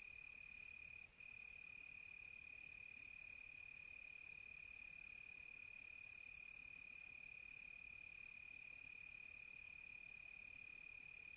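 A chorus of crickets chirping at night, faint. One cricket keeps up a steady unbroken trill, while a higher-pitched trill stops and starts every second or so.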